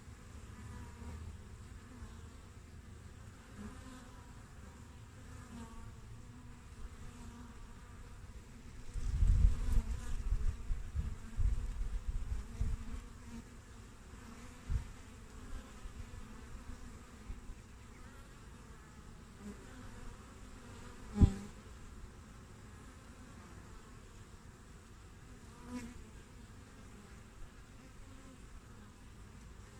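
Honeybees buzzing at a hive entrance: a steady hum of many bees with the wavering pitch of individual bees flying past. About a third of the way in there are several seconds of loud low rumbles, and about two-thirds in a single sharp thump.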